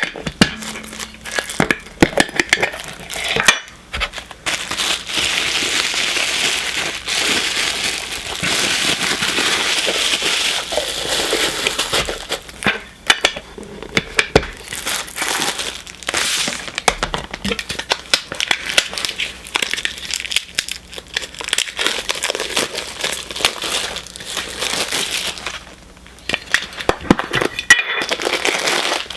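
Plastic packaging crinkling and crumpling as a Funko Soda can is unwrapped and its contents handled, with sharp clicks and knocks near the start and the end.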